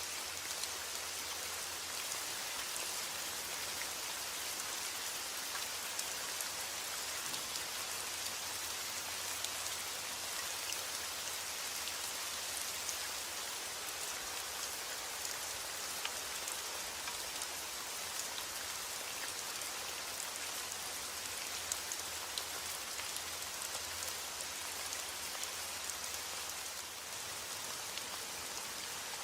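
Steady heavy rain falling on a roof: a dense, even hiss with scattered sharp ticks of single drops.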